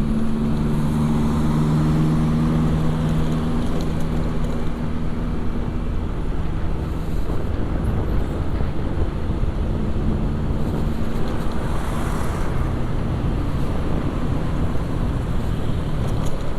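Motorcycle ride through city traffic: a steady engine hum over continuous road and wind noise. The hum is strongest in the first few seconds, fades, and returns about ten seconds in.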